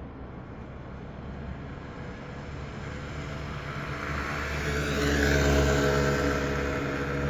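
City bus pulling away from the stop and driving past. Its engine and running noise swell, loudest about five to six seconds in, with a whine that falls in pitch as it goes by, then begin to fade.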